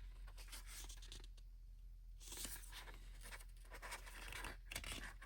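Faint rustling and light scraping of paper as small photo-book pages are handled and flipped, in irregular bursts.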